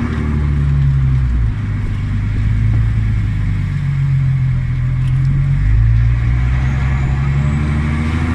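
Audi A4 B7's 3.0 TDI V6 diesel engine with straight-piped exhaust, running with a deep note as the revs rise and fall a few times, dropping about one and a half seconds in and again near six seconds, then climbing slowly near the end.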